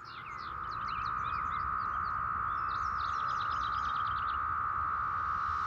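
Chorus of 17-year periodical cicadas: a steady, droning whine that fades in at the start and holds. Birds chirp over it for the first four seconds or so.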